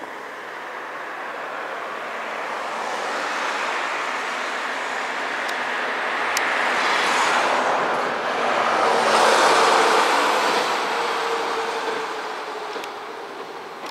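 A truck driving past, its noise building steadily, peaking about two-thirds of the way through and then fading away.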